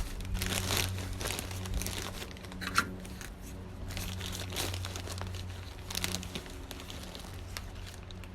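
Plastic zip-top bag of bird seed crinkling as it is handled and opened, with irregular crackles and one sharper crackle about three seconds in. A low steady hum runs underneath.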